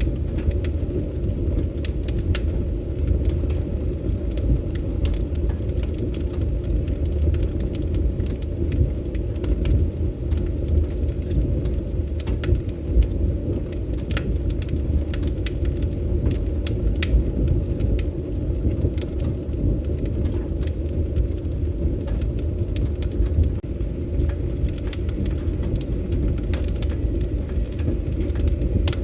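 Wood fire burning in a fireplace: a steady deep rushing rumble with scattered sharp crackles and pops at irregular moments.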